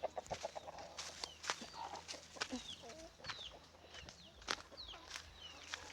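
Chickens clucking in a farmyard, with a quick run of clucks at the start. Short high falling chirps from other birds and scattered sharp clicks run through it.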